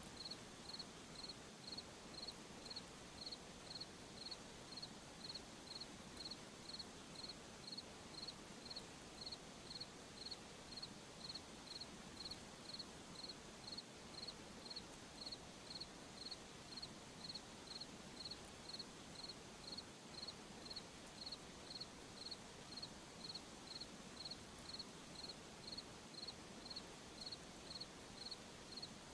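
A single cricket chirping steadily and rhythmically at a high pitch, about three chirps every two seconds, over a soft night hiss.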